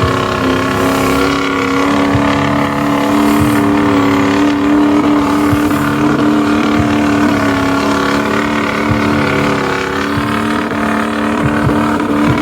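Mud truck engine held at high, steady revs, the pitch wavering slightly and dropping off right at the end.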